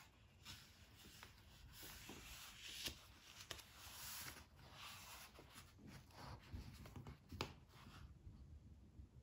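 Faint handling noise: soft, irregular rustling and rubbing with a few light taps.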